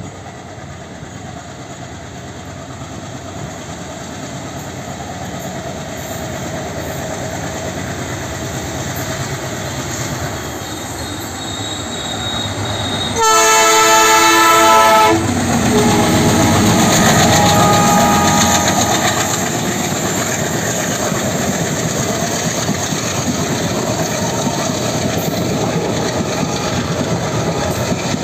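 A pair of WDM3A Alco diesel locomotives hauling an express train approach, growing steadily louder. About halfway through, the horn sounds for about two seconds. The locomotives then pass at their loudest, and the coaches follow with a steady clickety-clack over the rail joints.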